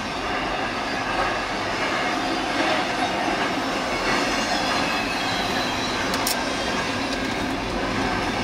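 Double-stack intermodal freight train with Union Pacific lead locomotives rolling past, its steel wheels on the rails making a steady noise, with one sharp click about six seconds in.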